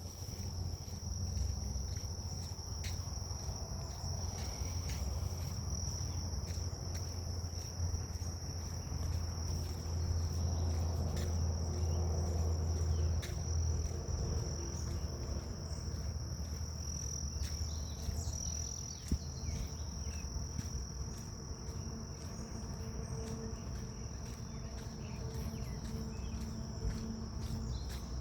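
Grass insects such as crickets keeping up a steady high-pitched drone, over a low rumble that is heavier in the first half and scattered faint ticks.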